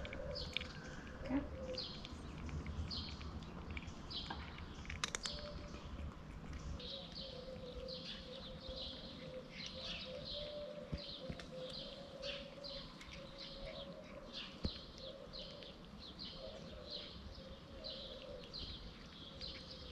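A small bird calling outdoors with short high chirps, about two a second, over a faint wavering lower tone, with a couple of sharp clicks about five seconds in.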